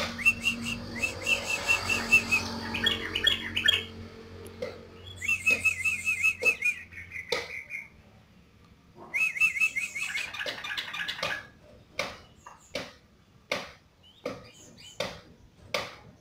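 Yellow-vented bulbul (trucuk) singing: three bursts of quick, bubbling, chattering phrases, each a few seconds long, with short pauses between. In the last few seconds only sharp clicks are heard, about one or two a second.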